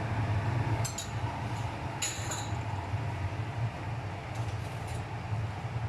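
Steady low hum of a kitchen appliance, with light clinks of a utensil against the pan about one and two seconds in.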